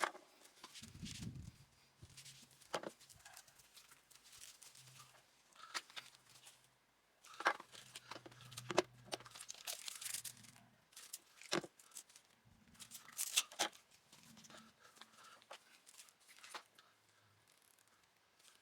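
Handling noises: crinkling and tearing with scattered sharp clicks and knocks, coming irregularly.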